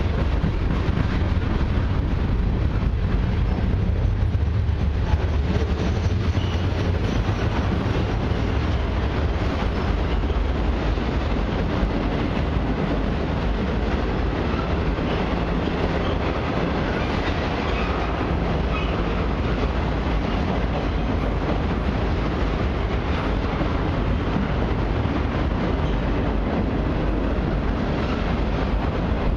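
Freight cars of a CN freight train rolling past at track level: a steady rumble of steel wheels on the rails as boxcars and loaded flatcars go by.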